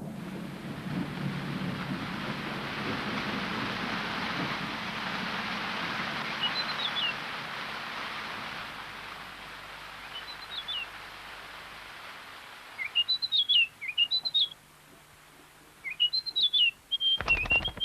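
Steady rain falling, fading away after about twelve seconds. Then a small bird gives repeated short, quick chirping calls in clusters, with a brief noisy burst near the end.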